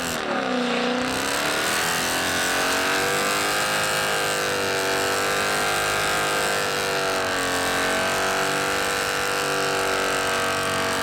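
A car engine revs up in the first second, then is held at high revs for about ten seconds, its pitch wavering slowly, with a hiss of noise over it.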